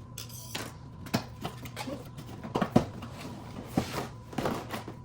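Cardboard box being cut open with a small knife and handled: irregular scrapes, rustles and sharp knocks, the loudest knock about three seconds in.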